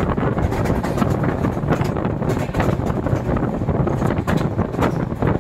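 Wind buffeting the microphone, over the steady rumble of a moving passenger train's coaches on the track.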